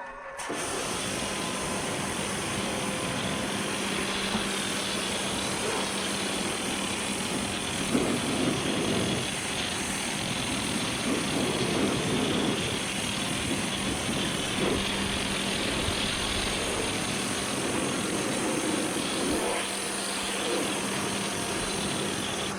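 Pressure washer running: a loud, steady hiss of the water jet with a low steady hum underneath, growing rougher and louder in spells around the middle, and cutting off abruptly at the end.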